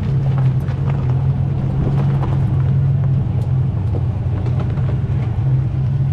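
Front-engine dragster's engine idling steadily at a constant low pitch, with no revving.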